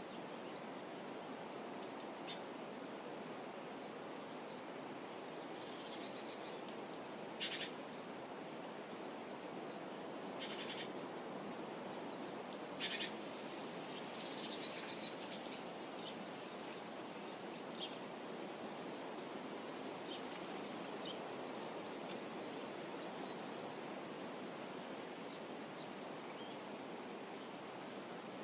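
Birds giving short chirping calls every few seconds, over a steady low outdoor wash of shoreline ambience. The calls cluster in the first half and thin out toward the end.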